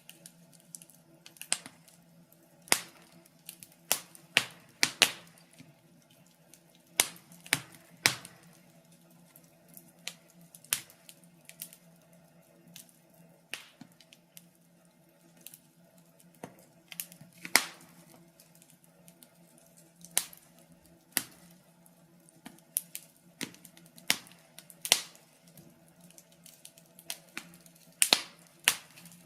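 Wood fire crackling in a fireplace: irregular sharp pops and snaps, several a second, some much louder than others.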